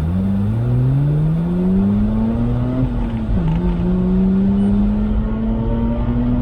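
Mazda RX-8's twin-rotor rotary engine at full throttle, its note rising steadily as it pulls through first gear, dropping sharply a little after three seconds in at the upshift, then climbing again in second.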